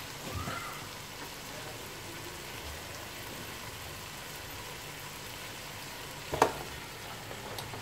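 Scrambled egg and chopped vegetables frying steadily in a pot over a high gas flame, a soft even sizzle. About six seconds in there is one sharp knock as a metal strainer of boiled rice meets the pot.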